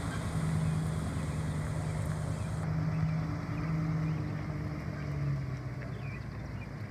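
1990 Ford C8000 bucket truck's engine running steadily at idle, its speed easing down a little about five seconds in.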